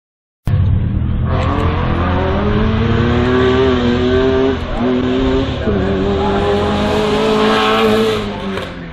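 Race car engine under hard acceleration, starting abruptly just after the beginning; its pitch climbs, drops sharply at two gear changes around the middle, climbs again, then eases off near the end.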